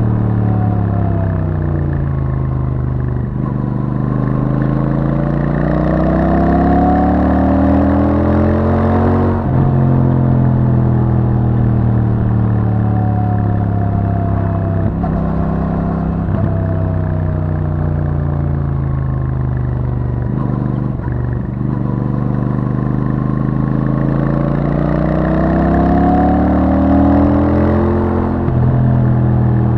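Royal Enfield Super Meteor 650's parallel-twin engine through its stock exhaust, heard from the moving bike on a winding road. The revs repeatedly fall away and climb again as it slows and pulls out of bends, with a sudden drop in pitch, a gear change, about nine seconds in and again near the end.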